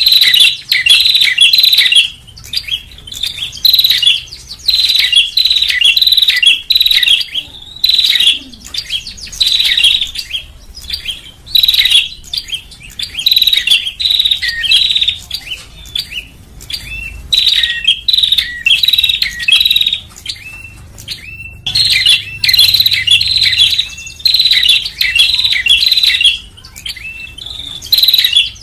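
Prinia (prenjak) calling in a repeated lure recording: loud phrases of rapid, sharp chirps, each about a second or two long, separated by short pauses.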